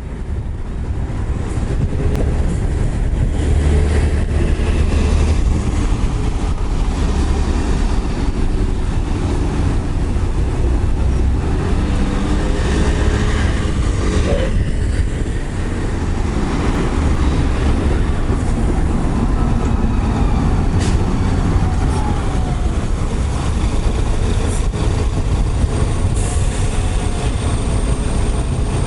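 Steady rumbling wind and road noise from a road bike being ridden, with wind buffeting a bike-mounted action camera's microphone.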